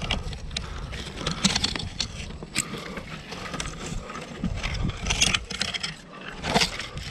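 Irregular scrapes and knocks of a climber working up a rock chimney, over a low rumble.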